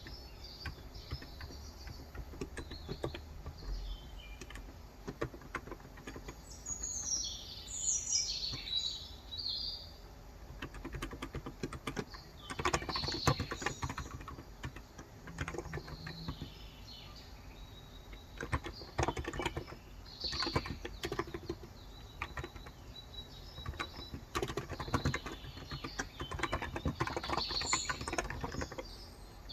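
Typing on a Cox Endeavor electrostatic capacitive (Topre-style) keyboard with 35 g keys: soft key strokes in irregular bursts with short pauses. Birds chirp over it, most clearly about a quarter of the way in and again near the end.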